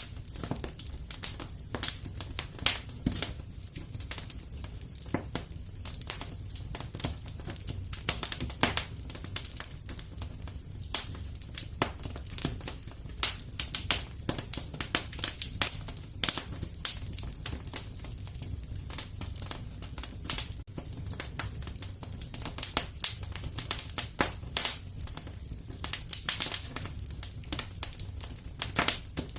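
Wood fire crackling and popping in a fireplace: a dense, irregular run of sharp snaps over a low steady rumble of the flames.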